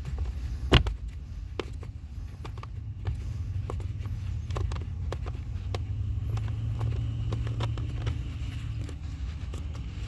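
Scattered clicks and knocks of hands handling the plastic blower fan housing under a car's dashboard, with one sharp knock about a second in, over a steady low rumble.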